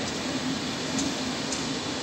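Regional train of Vivalto double-deck coaches moving past the platform: a steady rumble of wheels on rails with a low hum, and two faint high ticks about a second in.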